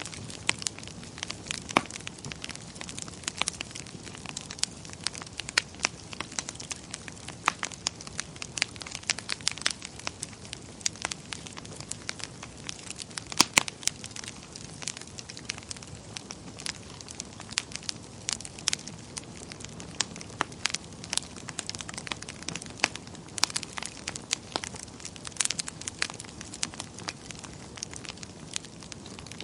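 Wood fire burning in a fireplace: a steady low hiss with frequent sharp, irregular crackles and pops from the burning logs.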